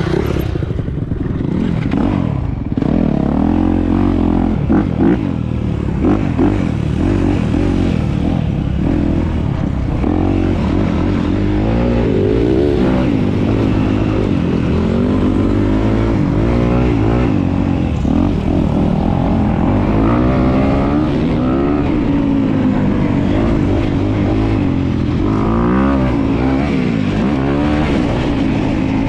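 Dirt bike engine running hard while being ridden, its pitch rising and falling again and again with throttle and gear changes, over a steady low rumble.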